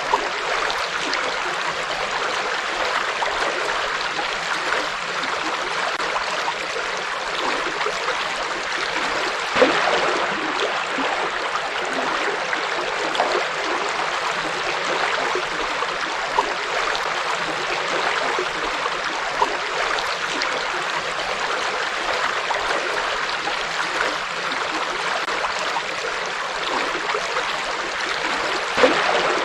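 River water flowing steadily in a continuous rushing wash, with a few brief louder splashes, the clearest about ten seconds in and near the end.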